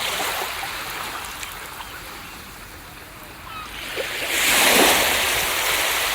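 Ocean surf on a beach. The wash of the water fades, then a wave breaks about four seconds in, swells to its loudest just before five seconds and hisses back down.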